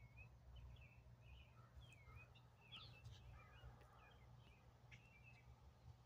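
Faint songbirds singing in the trees: a run of short chirps and quick warbled notes, with a steady low rumble underneath.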